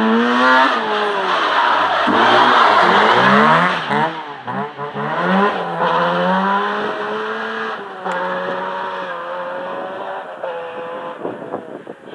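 Rally car engine revving hard through the gears, its pitch climbing and dropping again and again, loudest in the first four seconds. After that it settles to a steadier, quieter note that fades.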